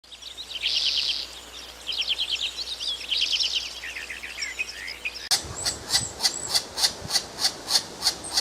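Songbird singing short trilled phrases. From about five seconds in, a run of evenly repeated sharp chirps comes in at about four a second.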